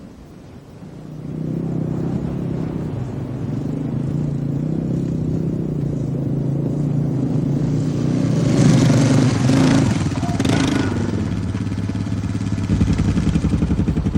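A small vehicle engine runs steadily, shifting in pitch. It grows louder, with a rushing noise, from about eight to eleven seconds in.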